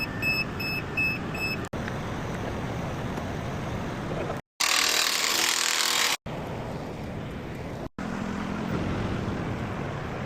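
Several short cuts of heavy diesel trucks: a reversing alarm beeping about three times a second at the start, then truck engines running. Near the middle, a loud hissing rush lasts about a second and a half.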